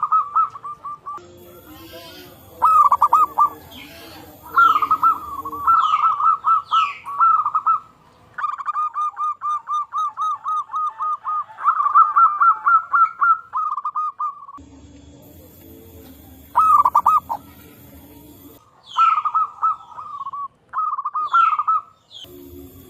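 Zebra doves (local perkutut) cooing: repeated runs of quick, rolling coo notes, about four or five a second, in several phrases with pauses between, the longest lasting about six seconds midway. Short, higher sliding chirps are heard alongside.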